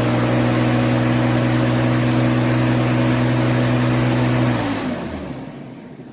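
Mountfield Electress corded electric rotary lawnmower running at full speed, pretty noisy, with a steady electric-motor hum under the whirr of the spinning blade. About four and a half seconds in it is switched off, and the motor and blade spin down, falling in pitch and fading out.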